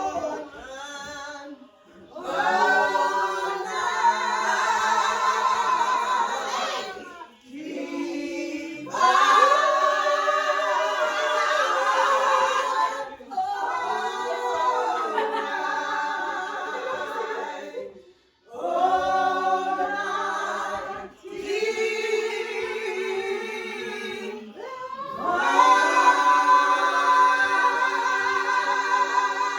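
Choir singing without instruments, in long phrases broken by short pauses.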